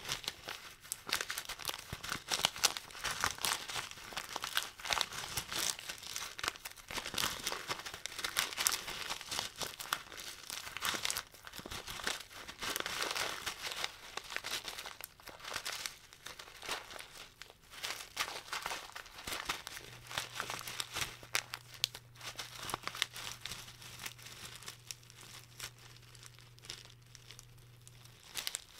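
Desiccant packets being crinkled and squeezed by hand, a dense, irregular crackling that swells and eases.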